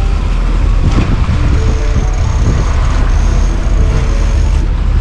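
Loud, steady rumble and rushing hiss aboard a moving sailing catamaran: wind buffeting the microphone over the sound of the boat under way.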